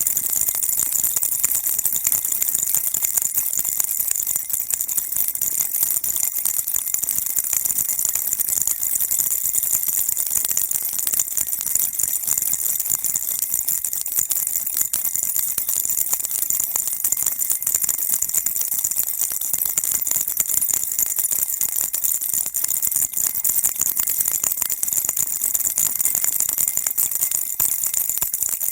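Baby rattle shaken continuously, a dense, steady, high-pitched rattling with no pauses.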